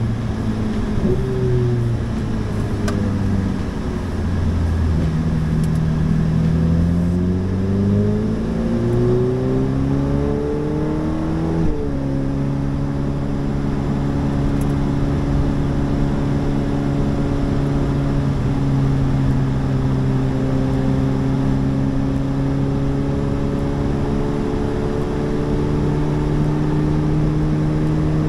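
A car engine under load. Its pitch falls in the first few seconds, then climbs with a couple of gear changes to a sudden upshift about twelve seconds in. After that it holds a steady, slowly rising note.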